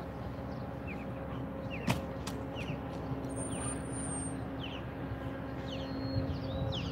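Small birds chirping over and over in short, quick, falling chirps, over a steady low hum of outdoor background. A single sharp click about two seconds in.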